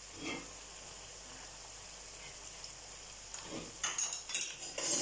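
Chopped shallots and green chillies sizzling steadily in oil in an unglazed clay pot, with a spatula scraping and stirring them in the pot in several quick strokes near the end.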